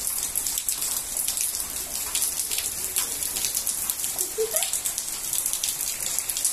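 Torrential rain: a steady hiss of downpour with many sharp ticks of drops striking a nearby surface.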